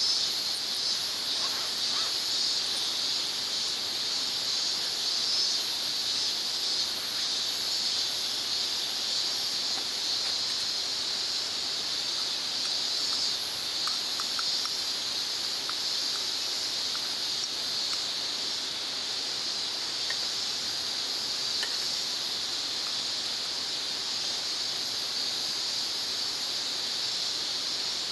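Steady insect chorus at a summer campsite: a constant high-pitched buzz with a still higher, pulsing shrill layered over it.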